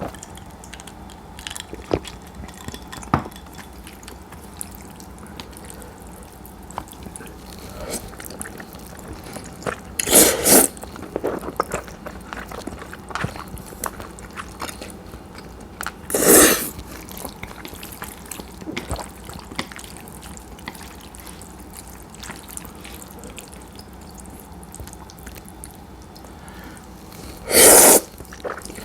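Cold udon noodles slurped in three loud bursts, about ten seconds in, about sixteen seconds in and near the end, with quiet chewing and small clicks between.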